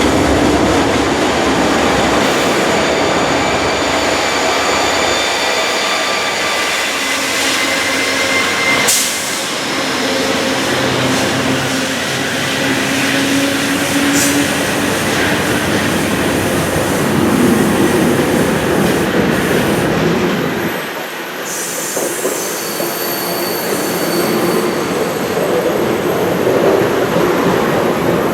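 Train moving on the rails: a loud, steady running noise with high squealing tones from the steel wheels.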